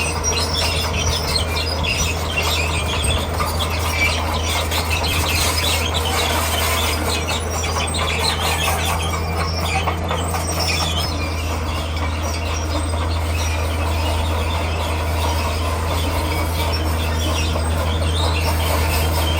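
Komatsu D41P crawler bulldozer working: its diesel engine runs at a steady hum while the steel tracks squeal and clatter continuously as it pushes rock.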